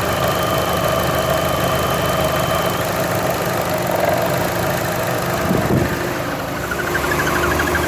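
Chevrolet Cruze engine idling with the air conditioning on, with a thin, steady, high squeak that stops about three seconds in. The squeak comes from the engine's front crankshaft oil seal.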